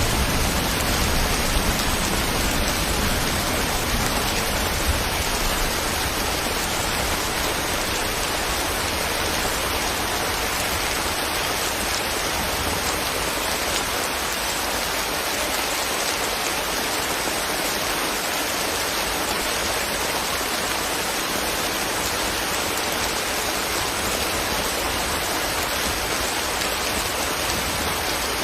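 Steady rain falling, an even hiss. A low rumble underneath fades away over the first few seconds.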